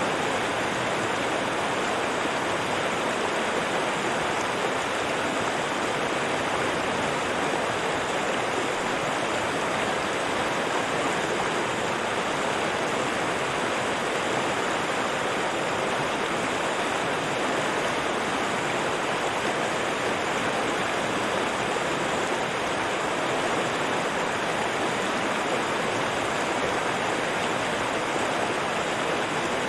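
River water flowing steadily over rocks, a continuous even rushing with no change in level.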